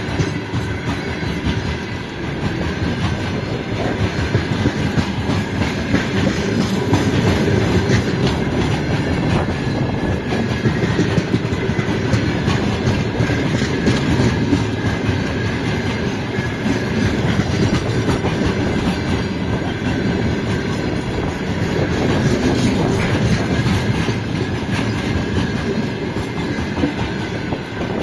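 A loaded freight train rolling past at speed: a continuous loud rumble with the clatter of wagon wheels over the rail joints.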